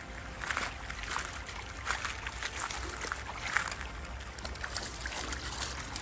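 River water sloshing and splashing in irregular bursts.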